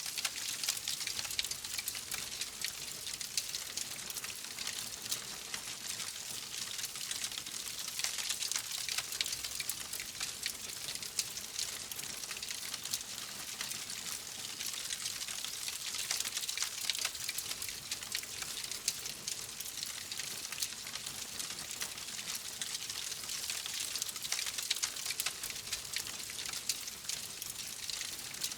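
Fire crackling steadily: a dense run of small pops and snaps over a soft hiss.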